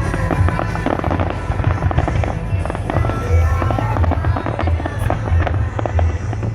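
Fireworks display: a rapid run of bangs and crackles over music playing.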